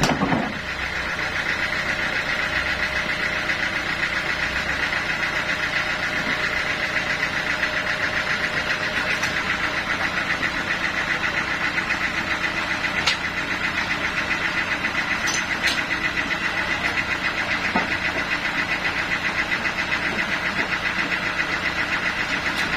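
Sawmill machinery running steadily, its engine giving a fast, even pulse, with a few faint ticks.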